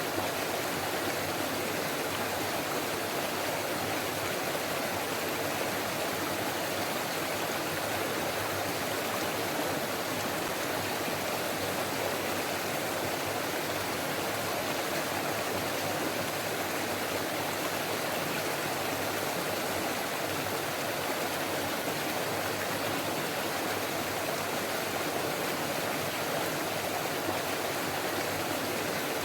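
Forest stream babbling over rocks, a steady rush of water without a break.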